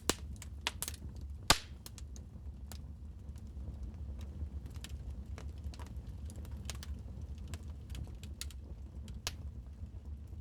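Wood fire crackling in a fireplace: irregular sharp pops and snaps over a steady low rumble, with the loudest pop about a second and a half in.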